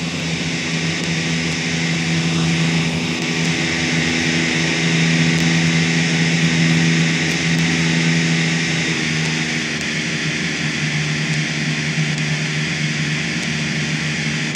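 Simulated Porsche 911 Turbo engine sound from an iPhone supercar app, a steady engine note whose pitch shifts slightly about nine seconds in, playing over the running noise of a metro train.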